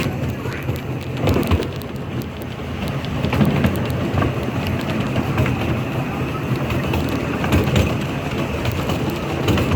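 Riding aboard a train: a steady rumble of wheels rolling on the track, with scattered clicks and clacks.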